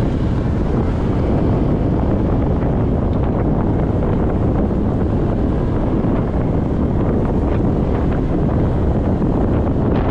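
Steady, loud wind buffeting the microphone of a GoPro on a moving motorcycle, a dense low rush that covers the rest of the ride's sound.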